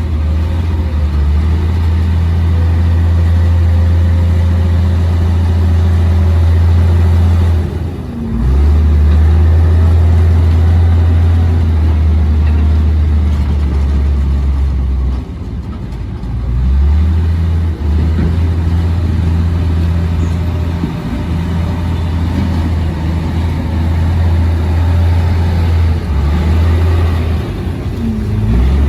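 Komatsu D58P crawler bulldozer's diesel engine running at work with a steady low drone. It eases off briefly about eight seconds in, again around fifteen seconds in and near the end, and comes back each time.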